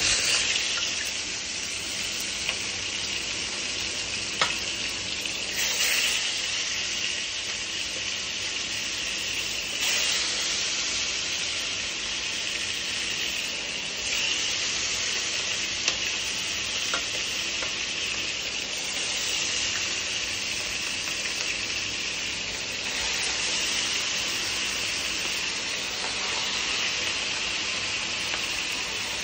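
Kingfish head pieces shallow-frying in hot oil in a pan, a steady sizzle that swells and eases a little, with a few clicks.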